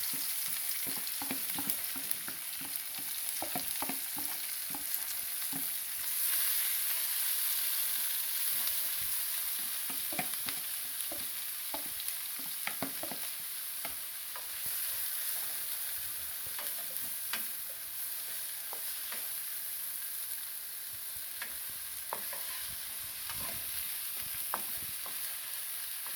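Chopped seasoning and onions sizzling as they stir-fry in hot oil in a pot. A steady frying hiss runs under frequent clicks and scrapes of a spoon stirring against the pot.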